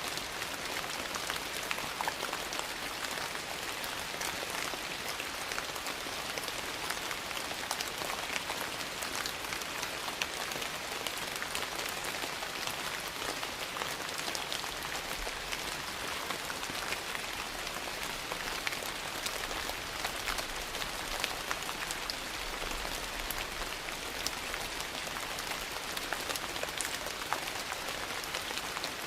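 Steady rain falling, mixed with a wood fire crackling in frequent small pops.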